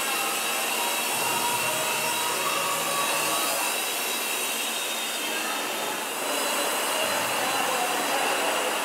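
Toy remote-control helicopter's small electric motors and rotors running steadily: an even whirring hiss with a faint high whine over it.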